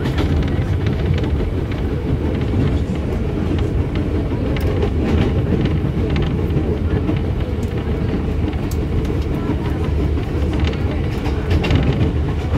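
Running noise heard from inside a moving KRL Commuterline electric commuter train: a steady low rumble of the wheels on the rails, with scattered light clicks and rattles.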